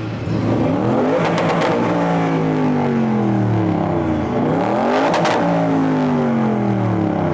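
A car engine revved hard twice, its pitch climbing quickly and then falling back slowly over about two seconds each time, with a short burst of sharp cracks at the top of each rev.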